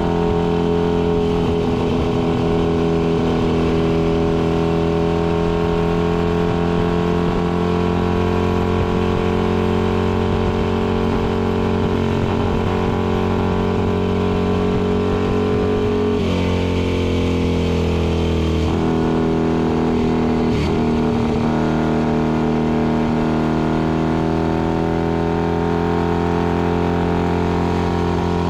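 Vintage racing motorcycle engine running hard at high revs, with wind noise over it. About sixteen seconds in, the revs fall in two quick steps as the rider shifts down for a corner, then climb steadily again under acceleration.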